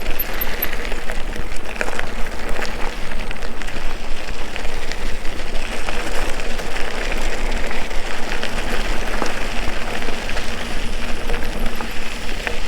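Steady tyre and wind noise of a bike being ridden, picked up by a handlebar-mounted camera, with scattered small clicks and rattles and a constant low rumble.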